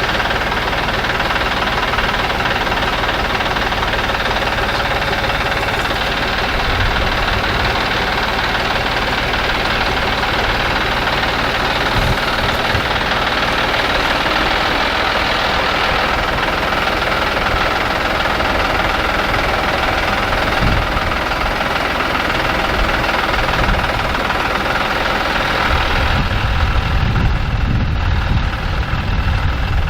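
An engine running steadily, with a deeper, louder low rumble in the last few seconds.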